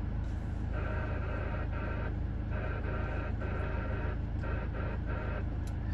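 Repeater's Morse code identification heard through a CB radio's speaker: a tone keyed on and off in long and short elements, starting about a second in, over a steady low hum.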